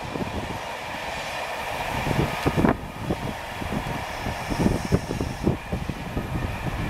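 Passenger train of coaches rolling past at reduced speed, a steady rumble of wheels on rail as the rear driving car goes by. Strong wind buffets the microphone throughout with irregular low thumps, the loudest about three seconds in.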